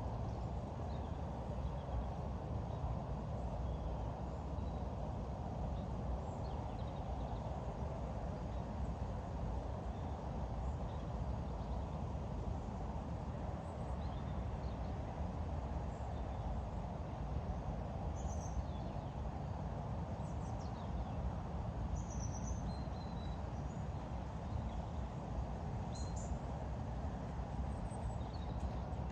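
Steady outdoor background rumble with faint, scattered bird chirps now and then.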